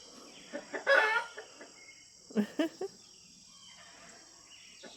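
Chickens calling: one loud call about a second in, then three short clucks near the middle. Insects buzz faintly and steadily underneath.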